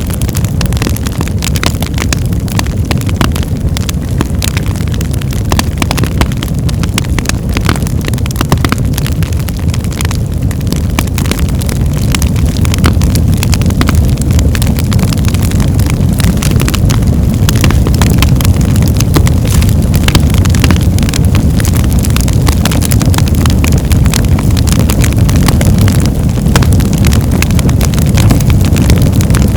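Wood fire burning hard: a deep, steady roar with many sharp crackles and pops, growing louder about twelve seconds in.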